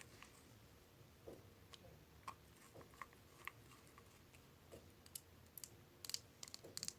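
Faint, scattered clicks of long press-on fingernails tapping, a few at first, then quicker and closer together near the end.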